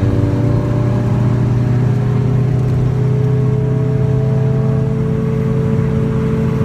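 Steady, loud hum from a 1994 Acura Integra's rear hub assembly at highway speed, heard inside the car over road and engine noise: the sign of a worn-out rear wheel bearing.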